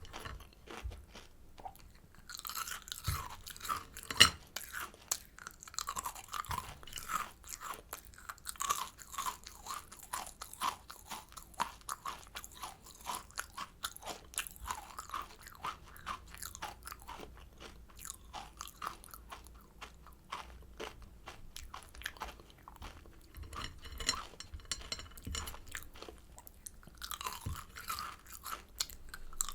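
Close-miked chewing of kohakutou crystal candy: the crisp sugar crust crunching in rapid crackles between softer chewing, with a few short pauses. One sharp crack stands out about four seconds in.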